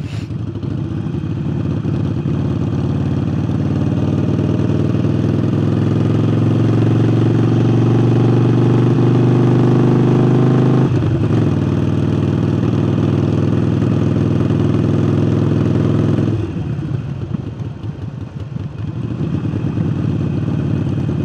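Harley-Davidson Forty-Eight's V-twin, breathing through a new aftermarket air intake, pulling under throttle with a rising note. The pitch drops suddenly at a gear change, the bike runs steadily for a few seconds, then the sound falls away as the rider rolls off the throttle.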